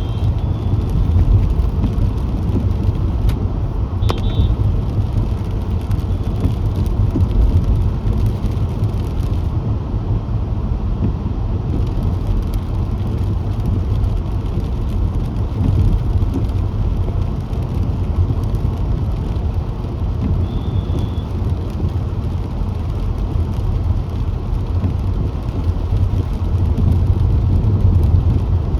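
Car driving on a road: a steady low rumble of tyres and engine. A few brief high tones sound about four seconds in and again about twenty seconds in.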